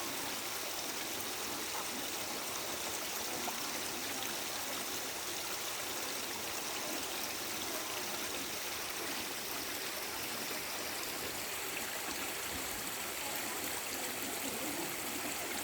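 Stream water running steadily, an even rushing hiss with no pauses.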